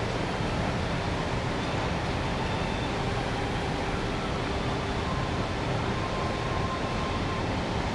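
Steady urban traffic roar, an even wash of city noise with a faint whine that comes and goes about five seconds in.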